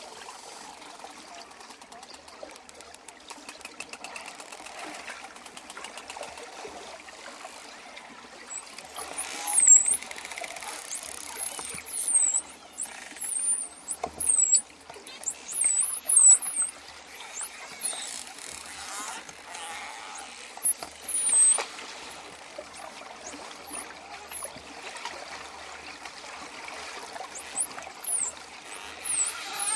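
Dolphins whistling: many short, high-pitched whistles sweeping up and down in pitch, over a steady watery hiss. Rapid dolphin clicking fills the first part, and the whistles start about a third of the way in.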